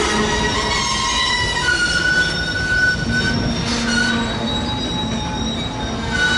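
Union Pacific freight train rolling past, its wheels squealing against the rails: several high squealing tones come and go and shift in pitch over a steady rumble of the cars.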